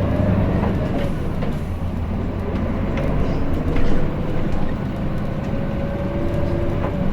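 Interior running sound of a Hino Blue Ribbon City diesel city bus as it approaches a stop: a steady low engine and drivetrain hum with a faint held whine. Light rattles and clicks from the cabin.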